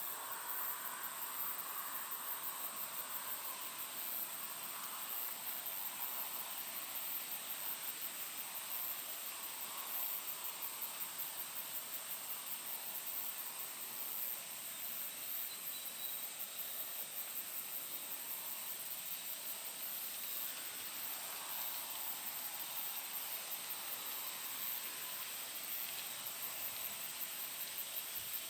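A steady, high-pitched chorus of insects with a fast pulsing trill, over the soft rustle of breeze in poplar leaves.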